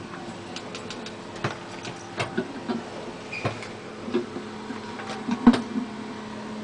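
Irregular light knocks and clicks, one or two a second, over a steady low hum, with the sharpest knock about five and a half seconds in.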